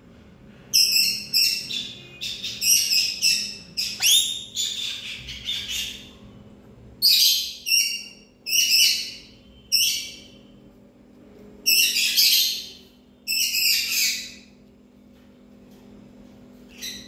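Parrot calling in a rapid series of short, harsh screeching chirps, in clusters of two or three, falling quiet about three seconds before the end.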